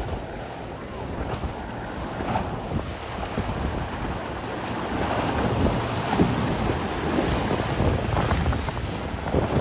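Wind buffeting the microphone over the rush of waves and churned water, growing louder about halfway through.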